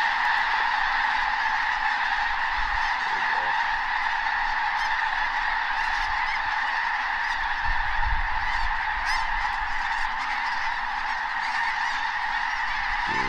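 A huge flock of snow geese calling all at once, a dense, continuous din of honking with no let-up.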